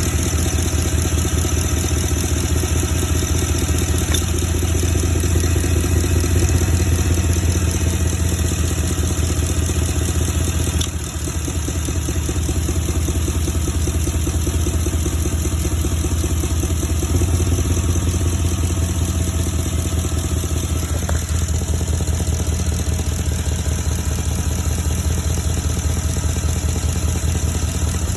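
A 2012 Porsche Cayenne S's V8 engine idling steadily, with a brief drop in level about eleven seconds in; the owner presents this as an engine problem.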